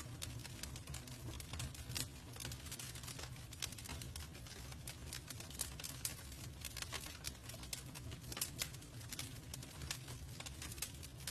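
Wood campfire crackling, with irregular sharp pops and snaps, several a second, over a steady low rumble of burning.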